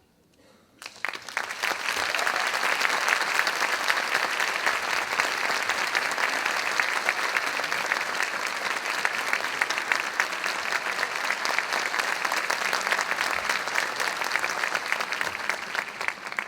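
Audience applauding, breaking out about a second in after a moment of quiet, steady, then dying away at the end.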